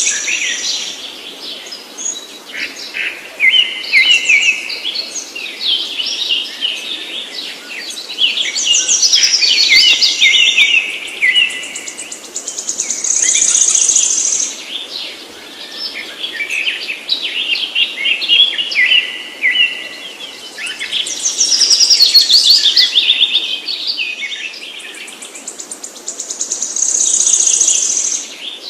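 Several birds chirping and calling at once, a dense run of quick high notes and trills. A high, steady buzzing trill comes in three times, about fourteen seconds apart.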